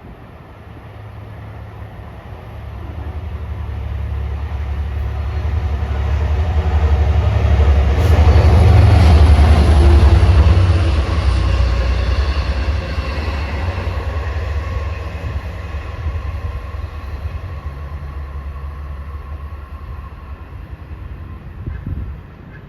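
Long Island Rail Road train passing through the station with a low rumble. It grows louder to a peak about eight to ten seconds in, then slowly fades as it moves away.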